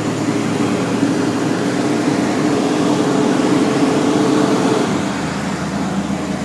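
Diesel garbage truck's engine running under load, heard from inside the cab. About five seconds in, its note drops and it gets a little quieter.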